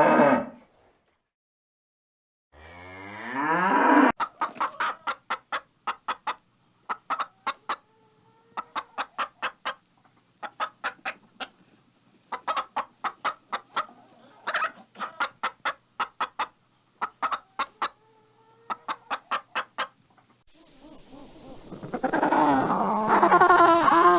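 A cow mooing, with a second moo a few seconds in. Then a hen clucks in quick runs of short sharp clucks with pauses between. Near the end, a dense noisy chorus of many animals calling together begins.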